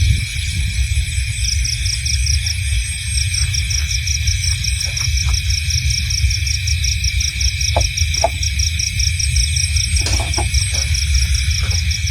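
Night insect chorus of crickets: a steady high-pitched trill with a fast, even pulsing chirp joining about a second and a half in, over a low rumble, with a few faint short calls here and there.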